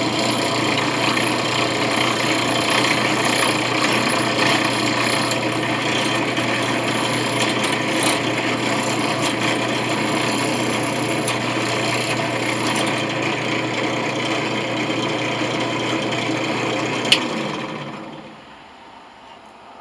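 Electric drill running steadily and grinding into a brass coin, with a steady motor hum under rough cutting noise. A sharp click about 17 seconds in, then the motor winds down and stops.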